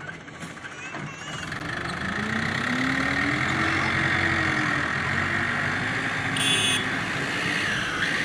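Tractor diesel engine running, revved up once about two seconds in, its pitch rising and settling back over the next few seconds.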